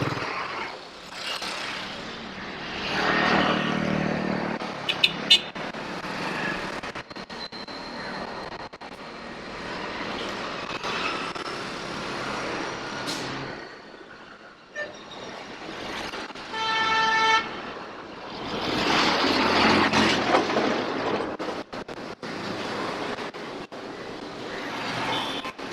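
Street traffic heard from a moving bicycle: motor vehicles passing, loudest twice, with a single vehicle horn honk about a second long roughly two-thirds of the way in. Scattered sharp crackles and dropouts come from radio interference in the camera's mic adapter.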